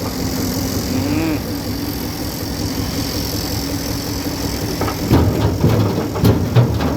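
Engine idling with a steady hum, joined about five seconds in by a run of knocks and clatter.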